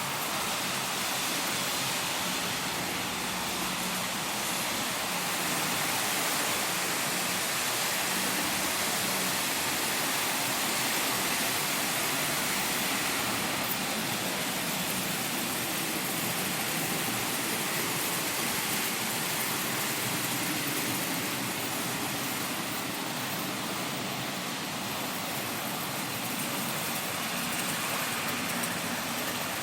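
H0-scale model trains running on the layout: a steady, even whirring hiss with no distinct clicks or rhythm.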